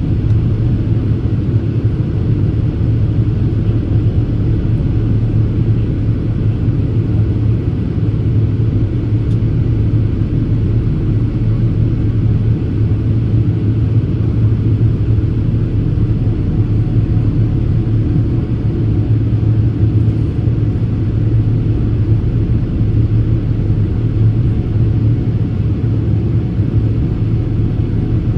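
Steady low rumble inside the cabin of a Boeing 787-8 airliner during its climb after takeoff: engine and airflow noise, unchanging throughout.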